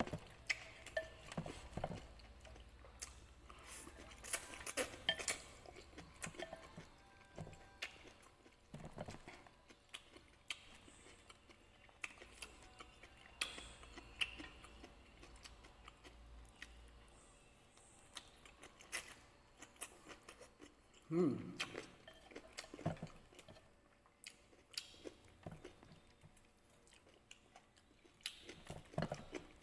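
A person chewing food between scattered light clicks of wooden chopsticks against a clay pot, with one louder brief sound about twenty seconds in.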